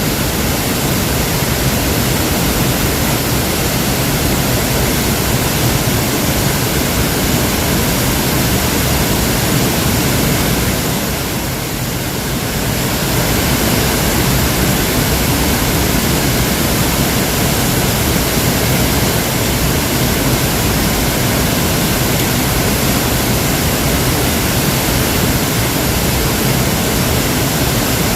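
Waterfall: a steady, loud rush of falling water, easing slightly for a moment about eleven seconds in.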